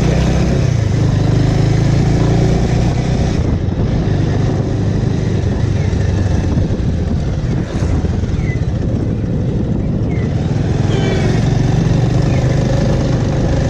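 Bajaj Avenger's single-cylinder engine running at riding speed under a steady rush of noise, easing off briefly a few seconds in and again about ten seconds in, as for speed breakers.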